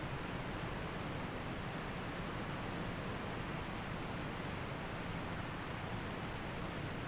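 Waterfall and creek water rushing in a steady, unbroken roar.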